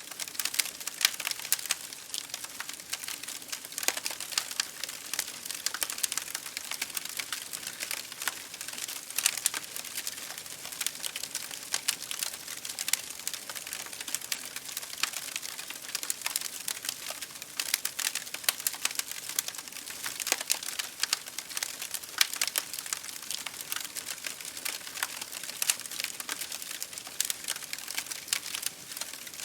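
Wood fire crackling in a fireplace, with frequent sharp pops and snaps, over the steady hiss of rain on a window pane.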